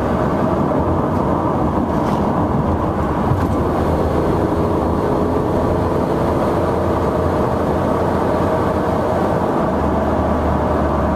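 Supercharged 3.8-litre V6 of a Buick Regal running at a steady cruise, heard from inside the cabin mixed with steady road and tyre noise.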